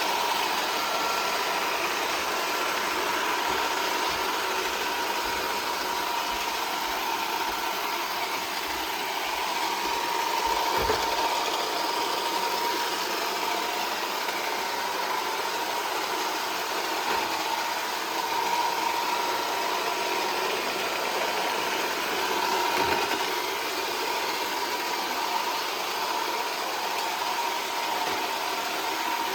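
iRobot Roomba 440 robot vacuum running steadily, a constant whirring with a high whine from its motors. Two brief soft knocks, about eleven seconds in and again about twelve seconds later.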